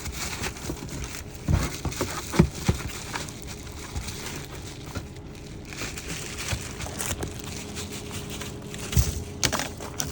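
Rustling and clicking of small plastic parts and their packaging being handled, with a few sharp knocks about a second and a half in and again near the end.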